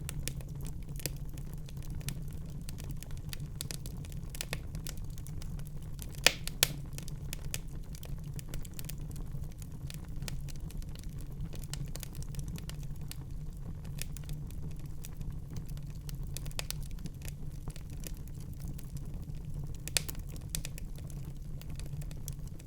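Wood fire crackling in a fireplace: a steady low rumble of flame with frequent small pops, and a few sharper pops about six seconds in and near the end.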